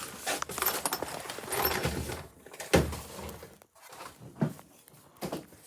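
Rummaging through parts and tools in search of rubber washers: irregular rustling and clattering with scattered knocks, the loudest knock about three seconds in.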